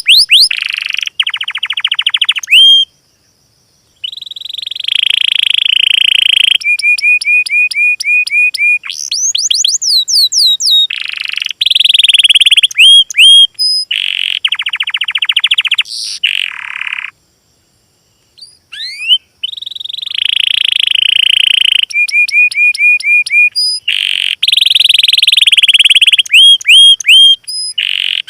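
Small songbirds singing loud, clean song phrases: fast buzzy trills, runs of short rising whistled notes and high thin chirps. The song breaks off into silence twice, about three seconds in and again about seventeen seconds in.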